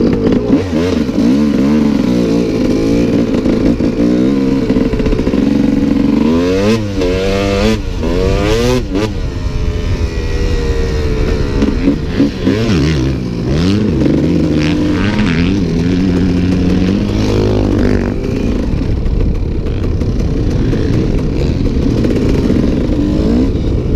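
Motocross dirt bike engine revving hard and shifting through the gears as it is ridden around the track, its pitch rising and dropping again and again, with quick climbs around six to nine seconds in.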